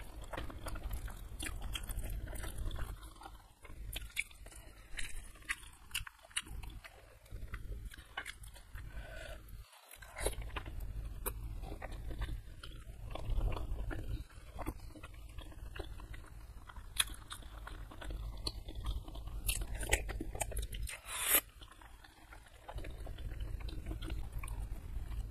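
Close-miked chewing and biting of chewy beef-foot tendon (kikil) in a spicy curry sauce. Wet mouth sounds are broken by many irregular sharp crunchy clicks.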